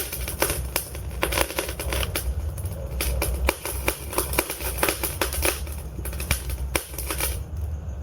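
Wood fire in a fireplace crackling, with many sharp, irregular pops and snaps from the burning logs over a low steady rumble of the flames. The crackling thins out near the end.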